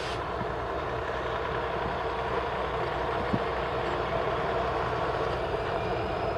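Heavy diesel engine idling steadily, a low even drone with no change in speed.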